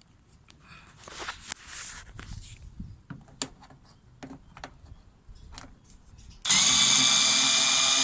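An electric drill-driver runs steadily for about three seconds, backing a screw out of a car's inner door panel. It starts suddenly near the end. Before it come light clicks and a short scrape of tool and panel handling.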